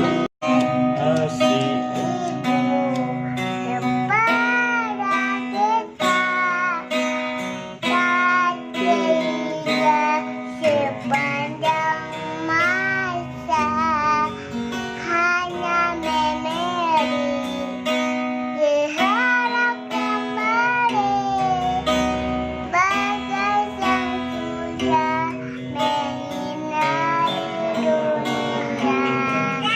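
A child singing a wavering melody over acoustic guitar accompaniment, with a steady low note held underneath.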